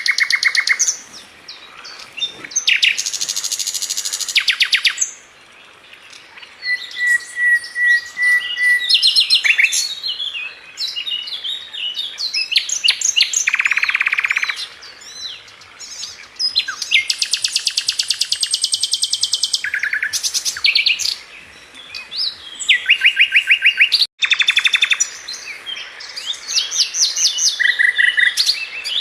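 A songbird sold in Indonesia as 'Sikatan London' (a flycatcher) singing continuously: fast rattling trills of rapidly repeated high notes and chattering phrases, with one long even whistle about a third of the way through. The song cuts out for a split second near the end of the second third, like an edit join.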